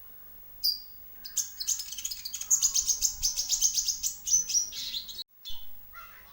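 Kolibri ninja (konin) sunbirds singing: a short high chirp, then a fast run of high repeated chirping notes for about four seconds that cuts off abruptly, followed by a few more chirps. It is a lure call recording made to set caged birds singing.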